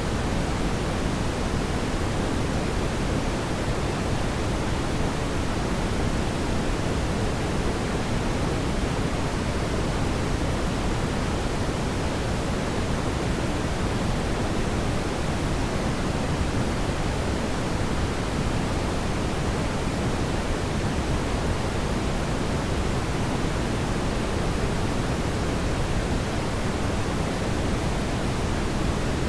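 Steady, even rushing noise of a fire in a fireplace, heaviest in the low end, with no distinct crackles or pops.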